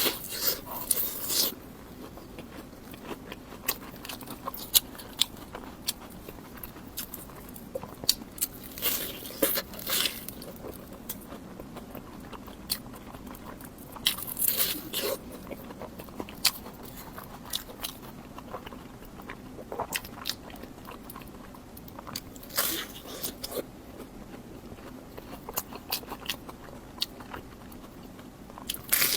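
Close-miked biting and chewing of crunchy deep-fried bread: several loud crackling bites spaced several seconds apart, with softer crunching chews between them.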